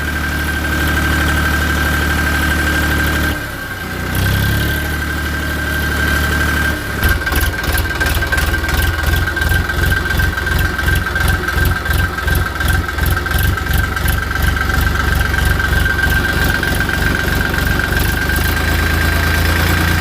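Tractor engine sound running steadily, with a steady high whine over it. After a short dip about four seconds in, it turns into an even rhythmic chugging, a few beats a second, from about seven seconds in.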